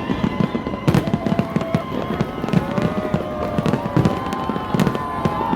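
New Year fireworks display: aerial shells bursting in dense, overlapping succession, a steady stream of bangs and crackles with a sharp loud bang about a second in.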